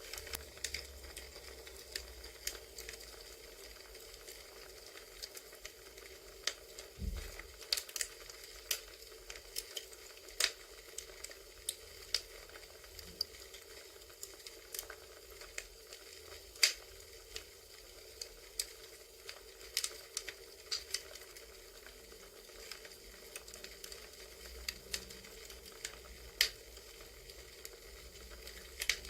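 Crackling campfire: irregular pops and snaps of burning wood over a steady soft hiss. One dull low thump about seven seconds in.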